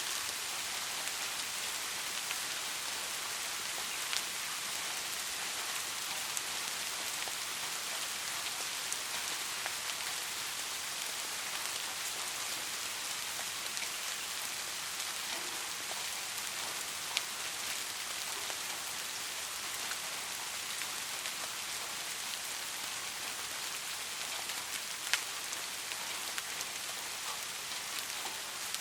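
Steady rainfall, an even hiss of drops with scattered sharper drop ticks, a few standing out around four seconds in, near the middle and near the end.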